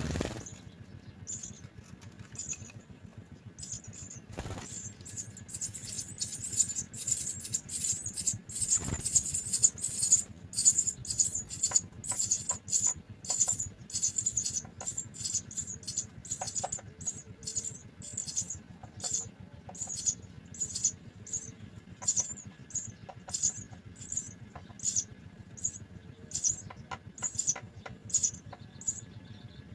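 House sparrow nestlings begging: rapid, high-pitched chirps repeating about twice a second, denser and louder from about six to eleven seconds in, with a few sharp knocks.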